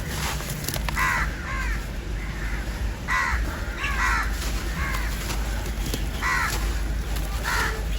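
A bird calling repeatedly, about seven short calls at uneven intervals, over a steady low rumble.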